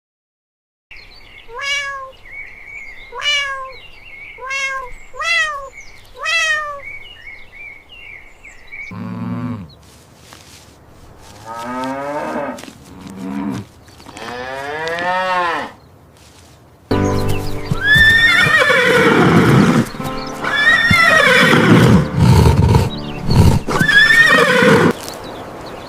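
A run of different animal calls played one after another. First come four short pitched calls about a second and a half apart. A stretch of longer rising-and-falling calls follows, and then, about two-thirds of the way through, a louder, denser section of calls.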